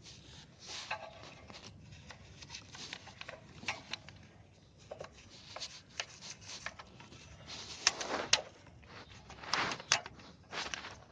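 A brush scrubbing the diesel-soaked nuts and sprocket area of a motorcycle, in irregular scraping strokes, loudest about eight and ten seconds in.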